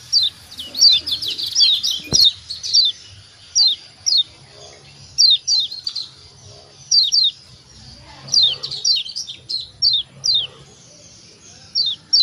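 Yellow white-eye (kecial kuning, the Lombok pleci) giving its sharp 'ciak ciak' call notes: short high downward-sweeping chirps, mostly in pairs and quick clusters, repeated every second or so with brief gaps.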